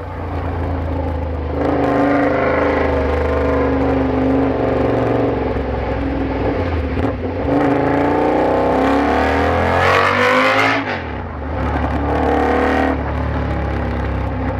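KTM 1190 R's V-twin running through a Bursig exhaust tip with no sound deadening, under way on the road. The engine note holds fairly steady, then revs up with a rising pitch past the middle, drops off sharply about three-quarters through and settles back.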